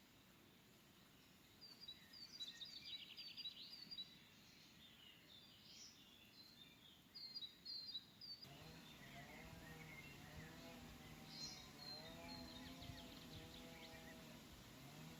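Small birds chirping faintly, in short scattered bursts of high calls. About halfway through the background changes and a faint low sound with a slowly wavering pitch comes in under the bird calls.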